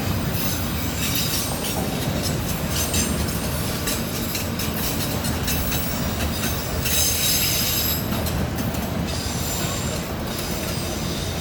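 Train rolling past, its wheels clicking over the rail joints with a steady rumble, and a high-pitched wheel squeal rising about seven seconds in.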